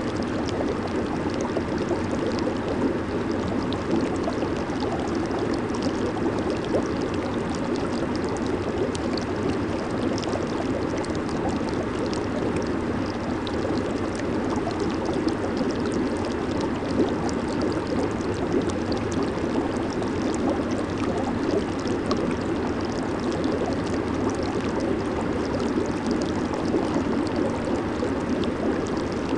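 Jacuzzi running with its jets on: a steady churning rush of bubbling water with many small pops of bursting bubbles.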